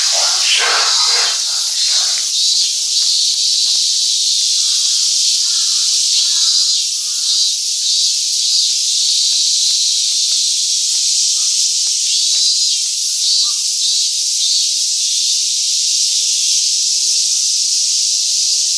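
A loud, steady chorus of summer cicadas: a continuous high, sizzling drone with a faint pulsing in it.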